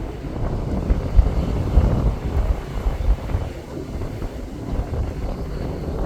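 Strong gusting wind buffeting the microphone: a heavy, uneven low rumble that swells and drops every second or so.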